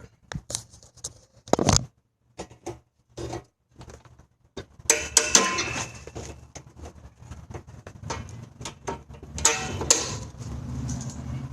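Metal tools and mower parts clinking and scraping while the transmission tensioner spring is worked loose: a run of sharp clicks and knocks, with two longer metallic scrapes about five and nine and a half seconds in.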